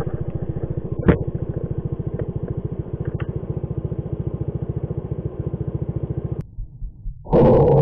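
Small single-cylinder motorcycle engine running steadily with an even low putter, about a dozen beats a second, with one sharp knock about a second in. The engine sound cuts off abruptly near the end, and a short, loud, noisy burst follows.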